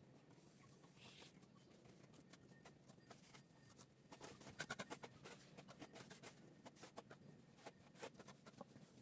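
Faint scraping and tapping of plastering work, with a quick run of clicks about halfway through.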